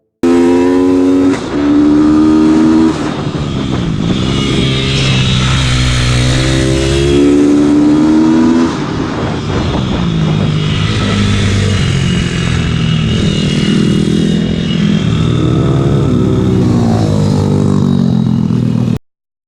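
Onboard sound of a YCF Factory SP2 150 pitbike at racing pace, its engine revving up repeatedly and dropping off again, with a second pitbike engine close by. The sound starts and cuts off abruptly.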